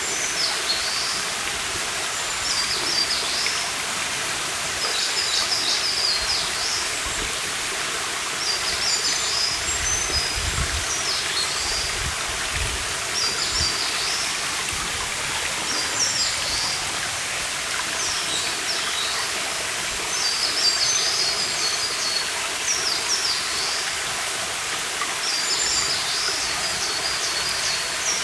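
A stream running steadily, with a small songbird singing short, high phrases every two to three seconds, some ending in a quick trill.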